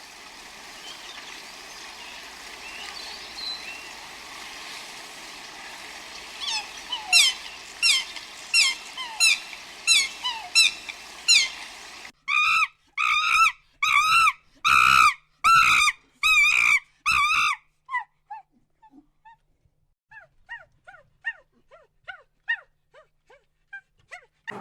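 Animal calls: first a run of short, quick falling chirps over a steady hiss. About halfway through comes a louder series of evenly repeated calls, then fainter scattered chirps near the end.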